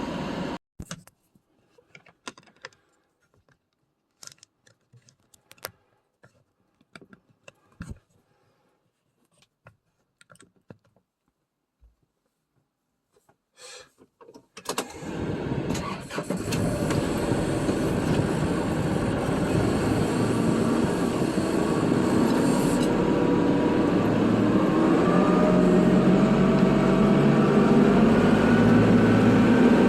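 Kubota tractor's diesel engine cutting off, then quiet with scattered small clicks and rattles for about fourteen seconds. About halfway through the engine cranks and starts, then runs steadily, slowly rising in pitch and loudness.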